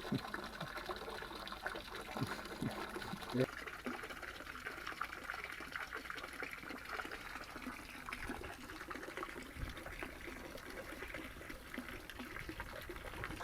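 Water trickling steadily into a pond, with a few soft knocks about two to three and a half seconds in.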